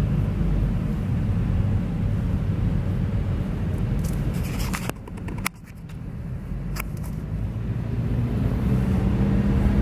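Car engine and road noise heard from inside the cabin while driving: a steady low hum. About halfway through it drops away suddenly, with a couple of sharp clicks, then builds back up.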